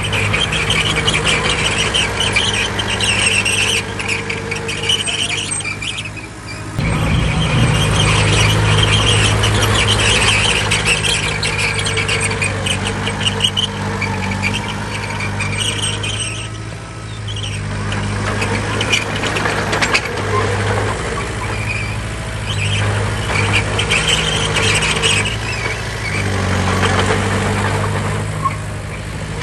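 Bulldozer's diesel engine working, louder and heavier from about seven seconds in, with a high squeal from its steel crawler tracks coming and going over it.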